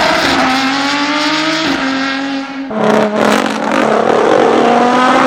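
Car engine and exhaust accelerating, the pitch climbing steadily with a brief dip about 1.7 s in and a clear drop about 2.7 s in, as on gear upshifts, then climbing again.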